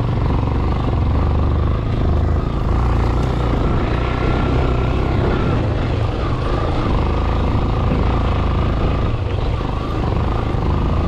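Motorcycle engine running steadily while being ridden over a rough, dusty dirt road, with continuous road and wind noise.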